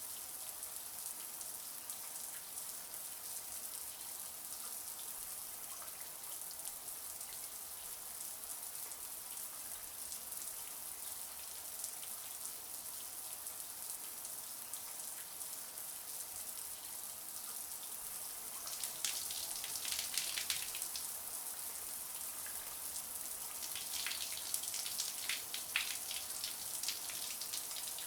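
Shower water running: a steady, high hiss of spray. The splatter turns sharper and more uneven about two-thirds of the way in, and again near the end.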